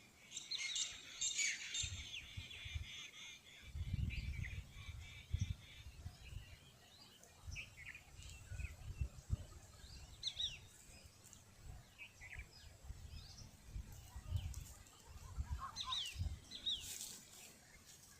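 Birds chirping: scattered short, high calls, some sliding in pitch, with intermittent low rumbles underneath.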